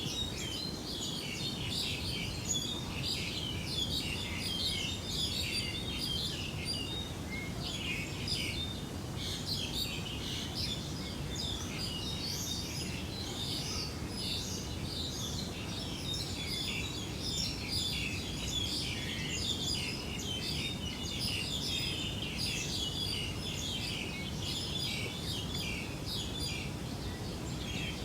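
Many birds chirping continuously, with short overlapping calls, over a steady low background rumble.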